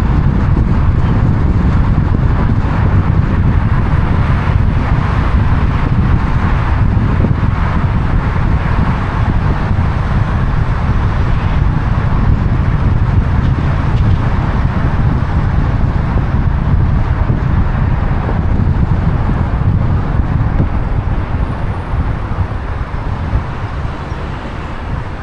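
Steady road noise of a car in motion: a continuous low rumble of tyres and engine with a lighter hiss above it, easing off slightly near the end.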